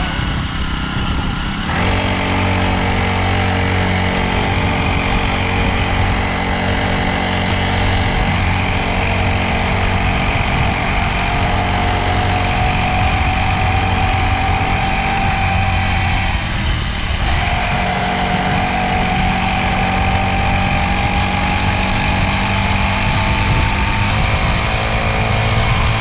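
Small dirt bike engine running under way, its pitch climbing slowly as it gathers speed. About sixteen seconds in, the engine note breaks off for under a second, then picks up lower and climbs again.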